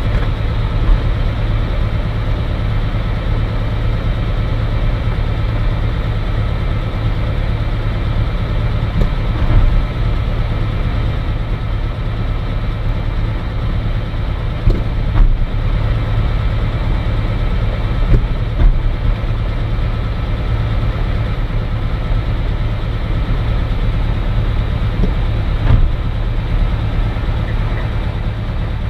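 Cirrus SR20's piston engine and propeller running steadily, heard from inside the cockpit as a deep, even drone, with a few brief thumps.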